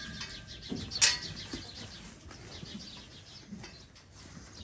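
Small birds chirping steadily, with one sharp knock about a second in.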